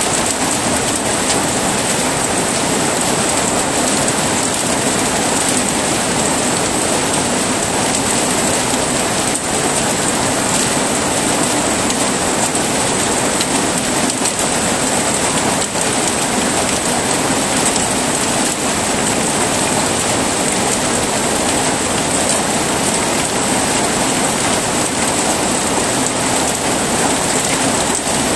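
Heavy rain falling steadily, a dense, even hiss with no thunder rolls.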